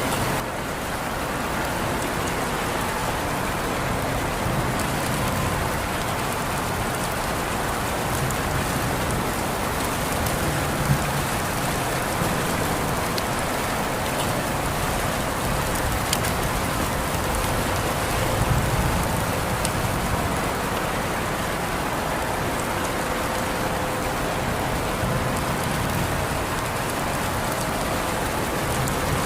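Steady rain falling on surfaces, an even hiss with scattered drop ticks and a brief low swell about two-thirds of the way through.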